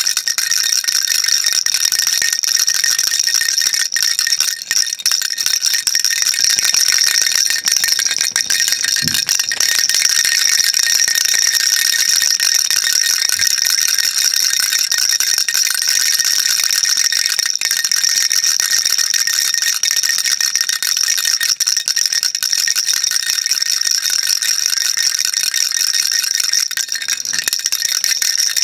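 A plastic baby rattle shaken continuously, a dense, steady, high-pitched rattle of beads inside it with no pauses.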